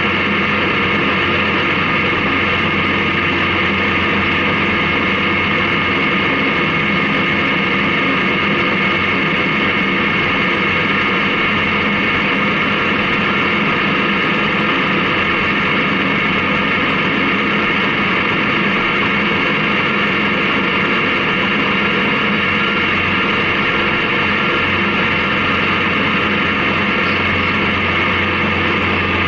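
Honda CB750K's air-cooled inline-four engine holding a steady drone while cruising, under a steady rush of wind noise.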